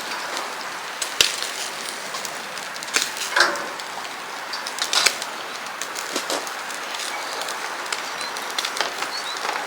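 Barbecue grill crackling and sizzling: a steady hiss with many sharp pops and snaps scattered through it, a loud one about a second in.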